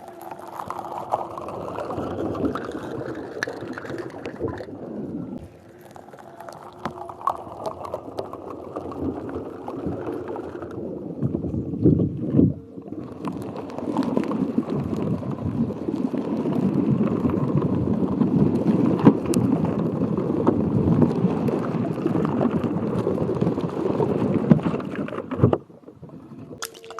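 Water gurgling and sloshing close to the microphone, in three long stretches with brief breaks, and cutting off suddenly near the end.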